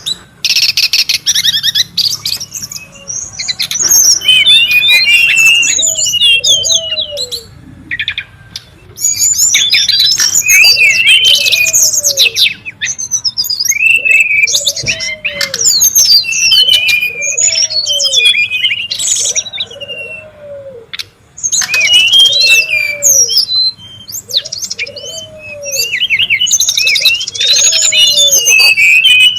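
Brown-chested jungle flycatcher calling, a busy chatter of rapid high notes in bursts of several seconds with short pauses between them. Through most of it a low, arching note repeats about once a second underneath.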